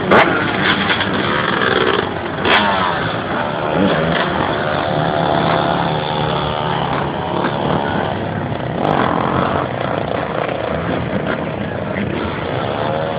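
Dirt bike engines running and revving, their pitch rising and falling as the bikes ride about. Two sharp clicks stand out, one at the very start and one about two and a half seconds in.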